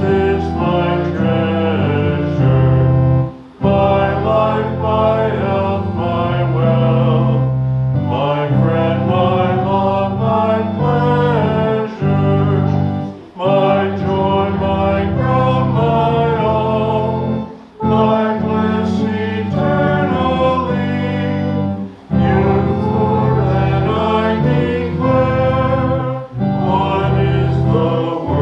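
Congregation singing a liturgical hymn with instrumental accompaniment, in phrases of about four seconds, each ending in a brief pause.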